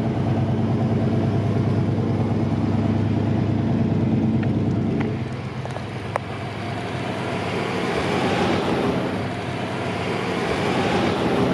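A vehicle engine running steadily close by for about five seconds, then dropping away, followed by swells of engine noise from other vehicles passing.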